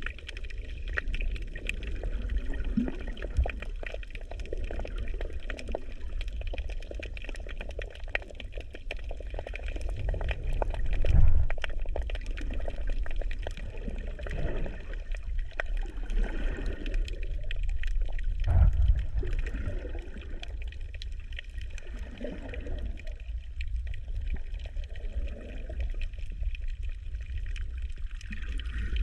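Sea water sloshing and gurgling around an action camera in its waterproof housing: a constant deep rumble with fine crackling, and two louder surges of water, about a third of the way in and again just past the middle.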